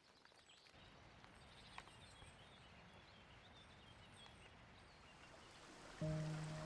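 Faint outdoor nature ambience, a soft even hiss with a few faint bird chirps. A sustained music note comes in near the end.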